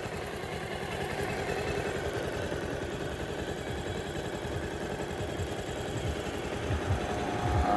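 Bajaj Pulsar 220's single-cylinder engine idling steadily and quietly, freshly rebuilt with a new timing chain, scissor gear and one-way clutch to cure a ticking noise. A few low thumps come near the end.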